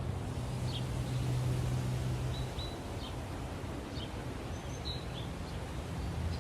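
Outdoor ambience: a steady low hum under a hiss, with scattered short, high bird chirps.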